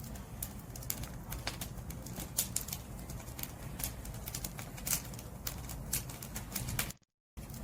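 Wood fire crackling, with irregular sharp snaps and pops over a steady low rumble of the flames. The sound cuts out briefly about seven seconds in.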